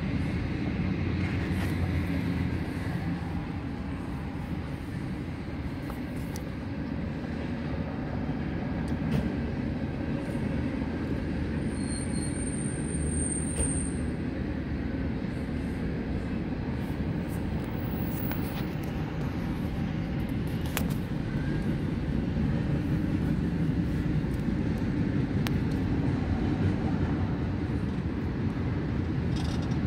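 CN freight train's cars rolling past: a steady rumble of steel wheels on the rails, with a few scattered clicks.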